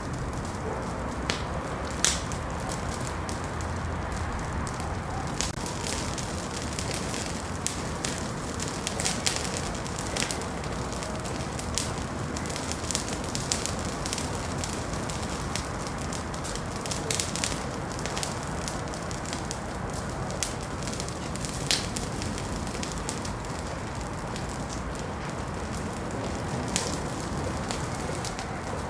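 Wood fire burning in a fireplace, a steady low rush with irregular sharp crackles and pops scattered throughout.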